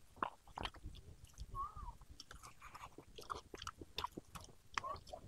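Close-miked eating: chewing with irregular wet mouth clicks and smacks as fried chicken and rice are eaten.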